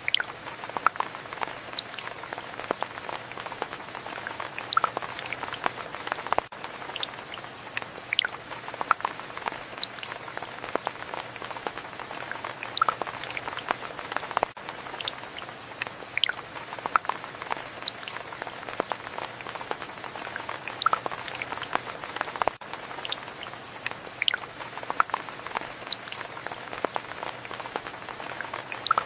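Rain falling with many close, sharp drops pattering and dripping over a steady hiss. It is a short stretch repeated about every eight seconds, with a brief dip at each join.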